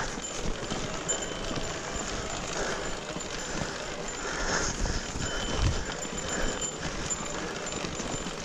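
Mountain bike rolling over a rough, wet trail: steady tyre noise with irregular knocks and rattles from the bike.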